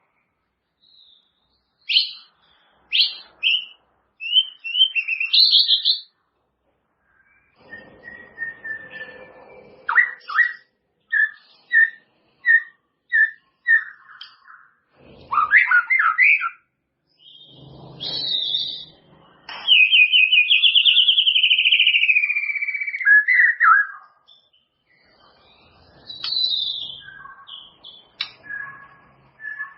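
White-rumped shama (murai batu) singing a varied series of loud whistled phrases broken by short pauses. About halfway through comes a run of repeated short notes, and about two-thirds of the way through a long trilled phrase that slides down in pitch.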